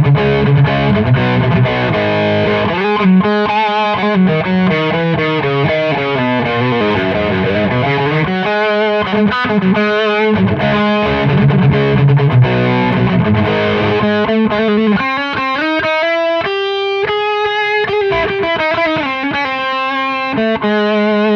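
Electric guitar on the bridge pickup, played through an Audiostorm Quad Screamer overdrive pedal in its MOSFET asymmetric clipping mode with the gain all the way up and dirty mode on: heavy, almost-metal distorted riffing. Low chugging riffs give way to single-note lines about fifteen seconds in.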